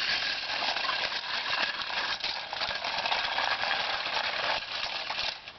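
Toy truck rattling as it rolls, a dense clatter of small clicks that drops away sharply near the end.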